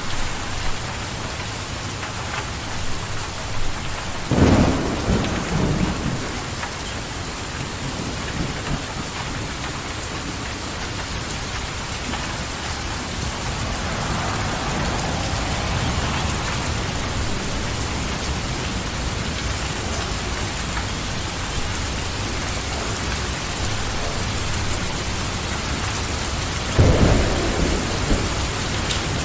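Steady rain falling in an even hiss, with thunder rumbling about four seconds in and again near the end.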